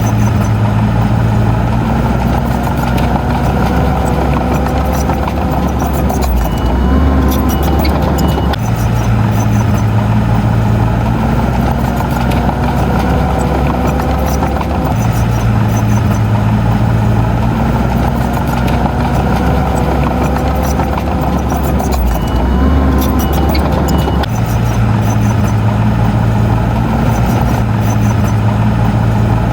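Bulldozer diesel engine running steadily, its pitch and load shifting every few seconds as the machine works back and forth. A short reversing-alarm beep sounds twice, about a quarter of the way in and again about three-quarters in.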